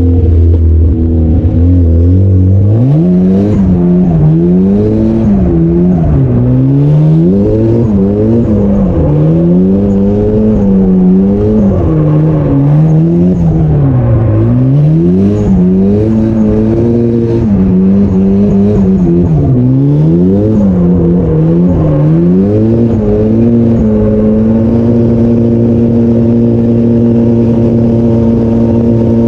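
Car engine running while driving, its pitch rising and falling again and again as it speeds up and eases off, then holding a steady pitch for the last few seconds.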